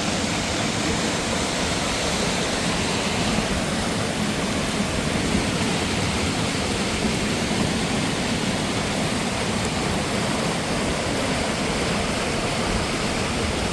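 Steady, loud rush of running mountain water, an even roar with no breaks.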